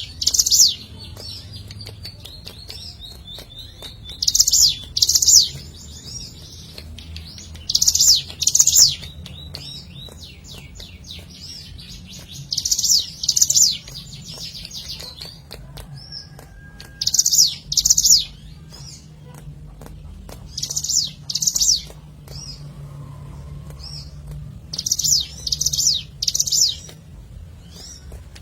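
Ciblek gunung, a prinia, singing. Loud groups of two to four sharp, high, sweeping notes come about every four seconds, with a faint, rapid high chatter between the groups.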